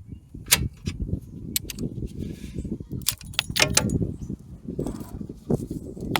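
Hand tools and metal parts clinking and rattling against each other as old battery cables and their bolts are worked off a tractor battery box, with irregular sharp clicks over a low scraping and handling noise.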